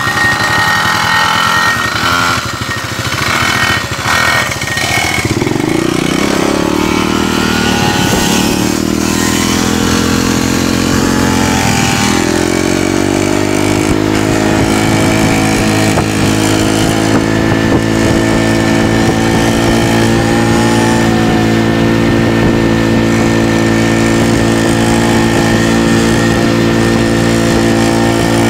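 Small motorcycle engine pulling away: the revs climb about five seconds in, drop with a gear change around twelve seconds, then hold a steady, slowly rising note at speed.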